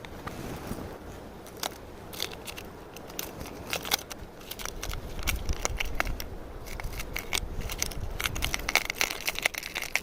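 Close rustling and crackling handling noise with many sharp irregular clicks, and a low rumble through the second half.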